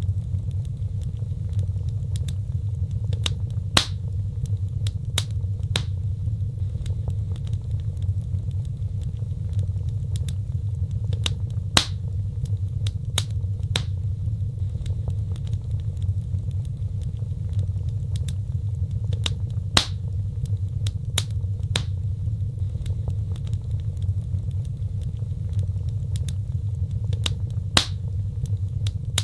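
Wood fire burning: a steady low rumble of flames with scattered crackles and sharp pops, the loudest pops coming four times at even intervals of about eight seconds.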